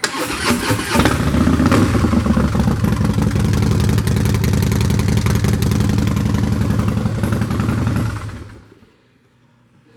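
2014 Harley-Davidson Breakout Screamin' Eagle's 110 cubic inch V-twin running loud through Vance & Hines drag pipes, then dying away about eight and a half seconds in.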